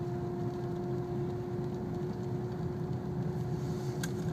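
Small car's engine running steadily in first gear at low speed, heard from inside the cabin as a low rumble with a steady humming tone.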